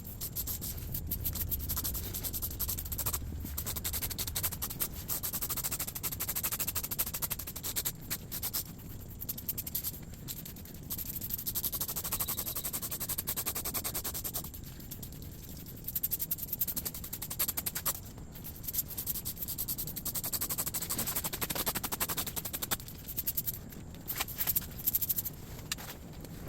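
Hand-trigger spray bottle squirting rigidizer onto a furnace's ceramic fiber insulation, pumped in quick runs of hissing squirts and trigger clicks with short pauses between runs.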